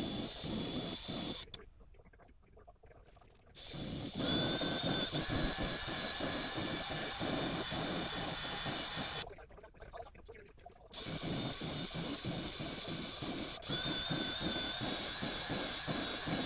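Power tool cutting the valve seats in a Briggs LO206 cylinder head, running with a steady whine over a fast rattle. It runs in three spells, stopping twice for a second or two.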